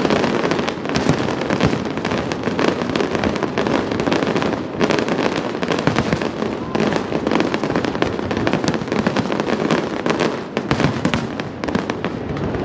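Fireworks finale barrage: many shells bursting and crackling in quick, overlapping succession without a pause.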